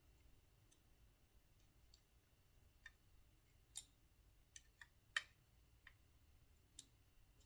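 Scattered light clicks and taps of small tools and screws being handled while building a model helicopter: about seven sharp ticks over four seconds against near silence.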